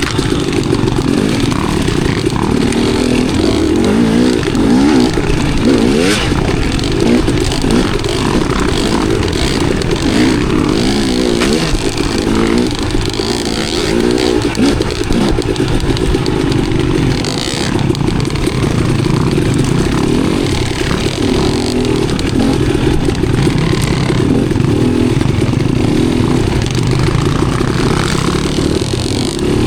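Enduro dirt bike engine running under way, its pitch rising and falling continually as the throttle is worked on and off.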